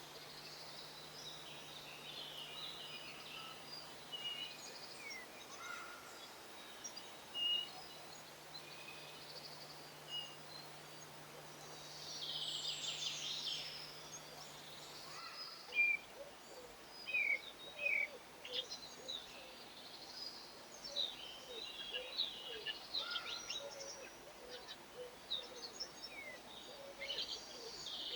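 Small garden birds chirping and twittering in many short calls, with a dense flurry about halfway through and frequent calls through the second half. A faint low hum underneath stops suddenly about halfway.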